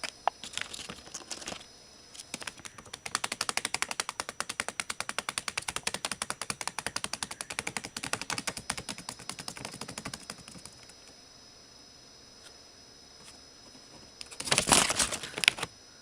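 A rapid, even run of sharp clicks lasting about eight seconds, followed near the end by a short, louder burst of noise.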